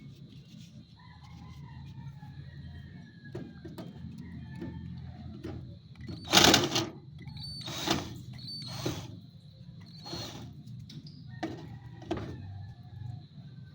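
A series of sharp clicks and knocks, about six of them in the second half, the loudest about six and a half seconds in, over a steady low hum: tools and metal parts being handled as a PC power supply is taken apart to remove its fan.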